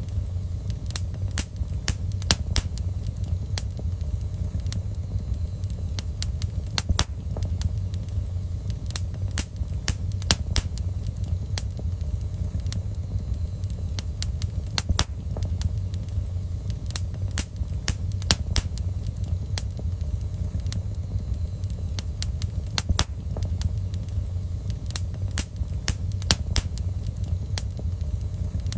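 Fire crackling in a fireplace: frequent sharp, irregular snaps and pops over a steady low rumble of the flames.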